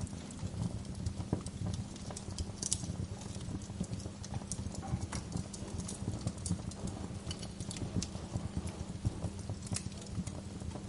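Wood fire crackling, with many small irregular pops and snaps over a low, steady rumble.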